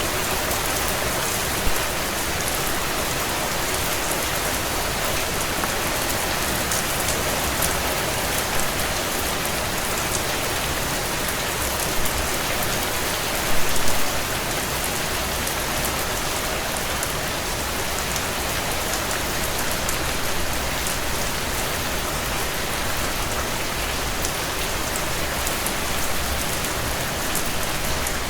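Steady heavy rain on window glass, mixed with the crackle of a wood fire burning in a stone fireplace. Scattered small clicks run throughout, with a few louder pops, the biggest cluster about fourteen seconds in.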